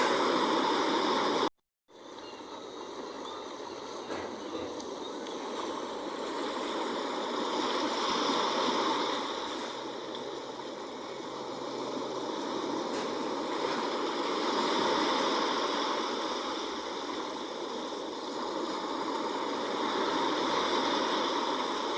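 Sea waves washing in and out, swelling and easing about every six or seven seconds. The sound drops out completely for a moment about a second and a half in.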